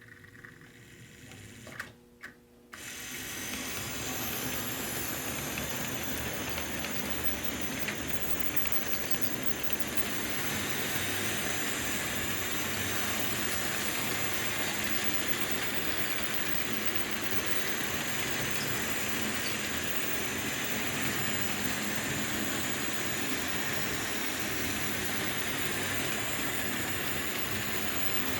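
COX HO-scale electric model train running on its sectional track, the small motor and wheels making a steady running noise that starts about three seconds in, just after a couple of short clicks.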